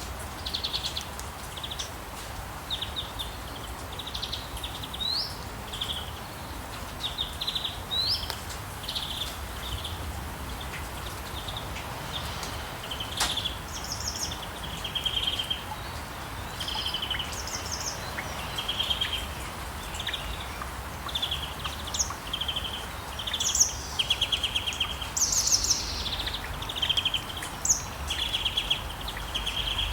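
Songbirds calling over and over in short trilled chirps, with a few quick rising notes and higher calls that grow busier toward the end, over a steady low hiss.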